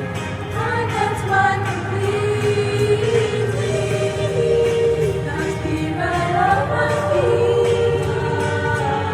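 A choir singing with instrumental accompaniment, holding sustained notes and moving between pitches.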